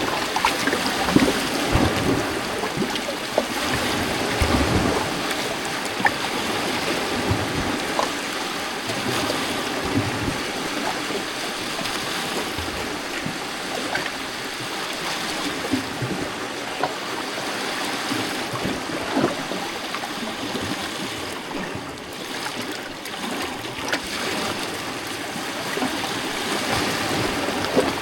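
Small lake waves lapping and splashing against rocks at the shoreline, a steady wash with frequent little splashes.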